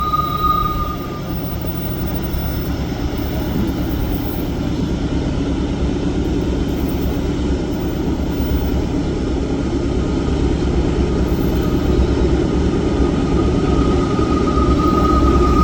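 GE diesel freight locomotive working hard under heavy load, lugging a long grain train up a grade: a steady low engine rumble that grows slightly louder toward the end, with a thin high whine at the start and again near the end.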